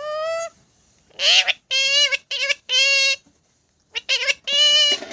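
Pet parrot talking, a string of about seven short, high-pitched speech-like calls with brief pauses between them.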